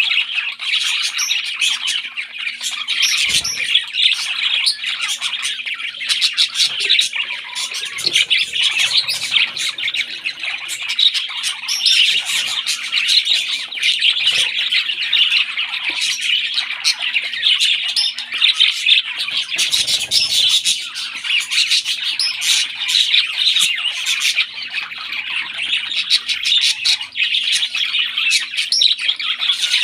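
Parrot chicks calling, with a continuous run of rapid, harsh chirps and squawks. This is typical of baby parrots begging while being fed.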